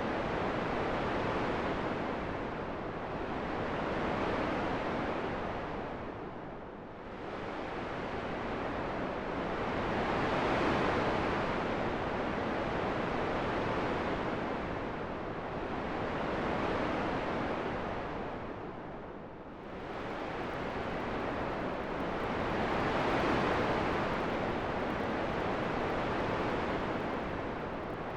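Steady wind noise rising and falling in slow gusts every few seconds, with two deeper lulls.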